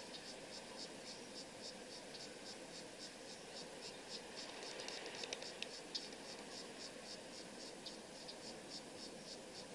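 Insects chirping steadily in an even rhythm, about four or five high chirps a second, over a faint background hiss, with a few sharper clicks about five to six seconds in.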